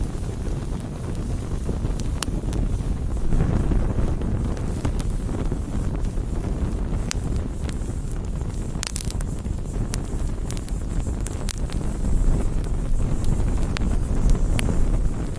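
Wood campfire burning: scattered sharp crackles and pops over a low, steady rumble.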